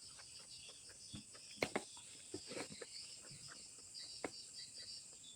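Close-up mouth sounds of eating: irregular wet clicks and lip smacks of chewing, the loudest about a second and a half in. Behind them, a steady pulsing chirr of crickets.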